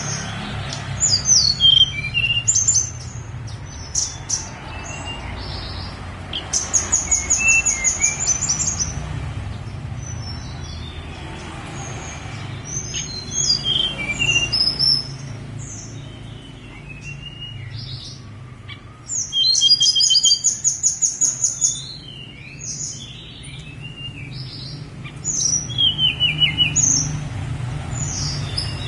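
A tledekan gunung (Sunda blue robin) singing in separate bursts every few seconds. Its phrases mix high, sliding whistled notes with fast, rattling trills. A steady low hum runs underneath.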